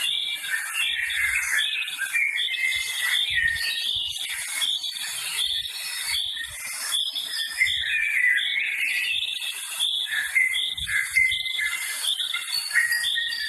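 A natural chorus of many small birds chirping and warbling over a pulsing high insect trill.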